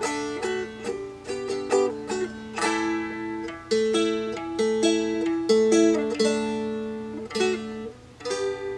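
Seagull Merlin, a four-string mountain-dulcimer-style instrument tuned D-A-D-D, strummed and picked through a D, G and A chord progression. The chords are struck in quick, uneven strokes, each ringing on briefly.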